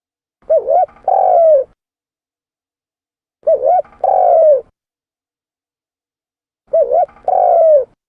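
Spotted dove (tekukur) cooing: three identical phrases about three seconds apart, each a quick two-note coo followed by a longer drawn-out coo, from a clean, looped lure recording.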